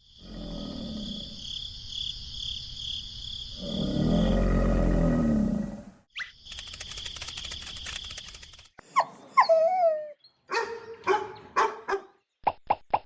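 A string of different animal calls, one after another: two long low calls in the first half, then a higher call that glides up and down, and several short sharp calls toward the end.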